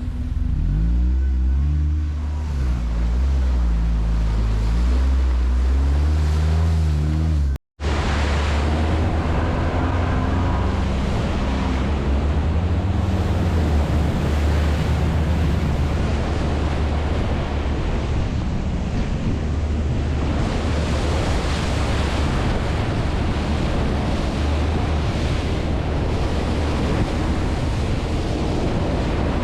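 ATV engine running while riding, its pitch rising and falling with the throttle for the first several seconds. After a brief dropout just before eight seconds, heavy wind rush on the microphone covers a steady engine drone.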